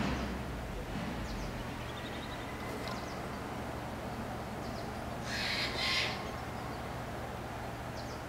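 Outdoor woodland ambience with a steady low hum and a few faint bird calls, then a harsher, noisier call in two parts about five and a half seconds in.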